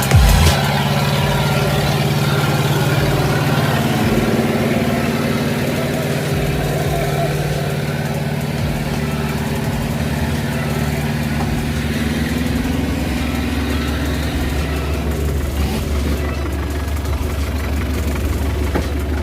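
A motor vehicle's engine running steadily. Its pitch rises a little about twelve seconds in, then gives way to a lower, steady hum.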